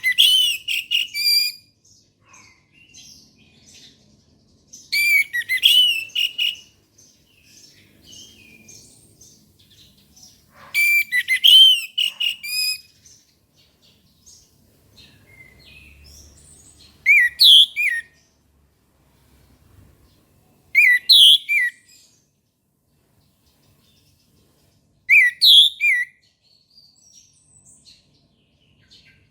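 Orange-headed thrush (anis merah) singing loud song phrases every four to six seconds, with soft twittering between them. The first three phrases are long and varied; the last three are shorter and repeat the same brief figure.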